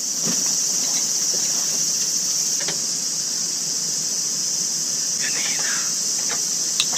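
Insect chorus: a steady, shrill, high-pitched buzz. About five seconds in, a brief faint squeal glides over it.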